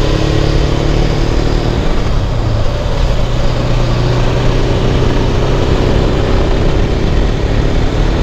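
Suzuki GS500F's air-cooled parallel-twin engine running under way, with wind rush over it; the engine note drops about two seconds in, then slowly rises again.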